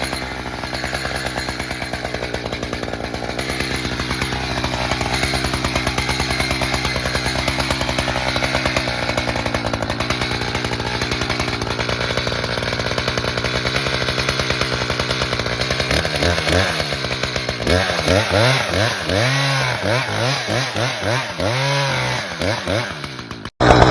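Chainsaw cutting into a spruce trunk, running steadily under load. In the last several seconds its engine speed rises and falls over and over, and the sound breaks off abruptly just before the end.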